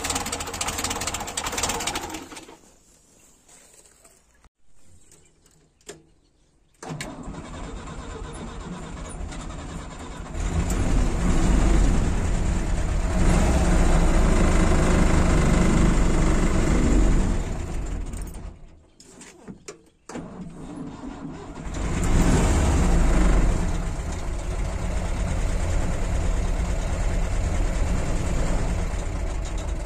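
LuAZ-969's air-cooled V4 engine stops about two and a half seconds in, then starts again several seconds later and is revved hard. It cuts out again about two-thirds of the way through, restarts, gets a short rev and settles into a steady idle.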